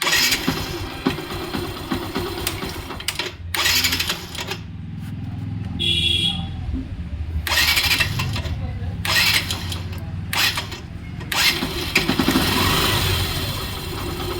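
Yamaha Saluto motorcycle engine running, revved in several short surges over a steady idle.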